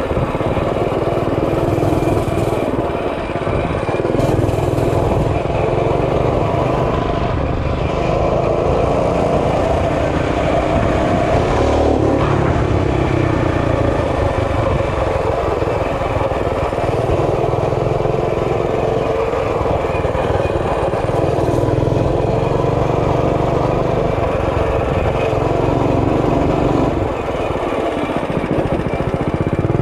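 Mini bike's small engine running under way, its note rising and falling as the throttle changes.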